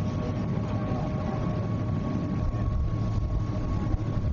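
Steady low drone of a dive boat's engines running, with a faint steady hum above it.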